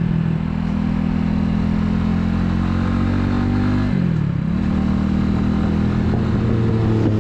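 Italika 250Z motorcycle's engine running at steady cruising revs under road and wind noise. Just before four seconds in, the engine note drops sharply and climbs back within about half a second.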